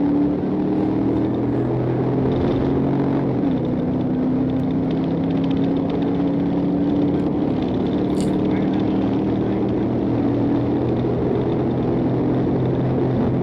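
Pursuing patrol car's engine pulling hard at high speed, a steady drone whose pitch drifts slowly up and down, with road and wind noise.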